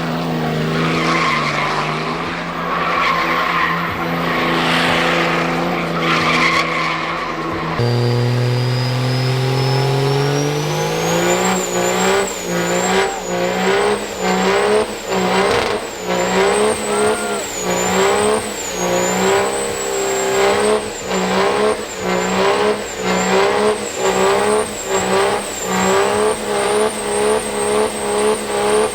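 Diesel pickup truck doing a burnout: engine held at high revs with tyres spinning and squealing. About eight seconds in, the engine note drops and climbs again under a rising turbo whistle. After that the revs pulse up and down about three times every two seconds.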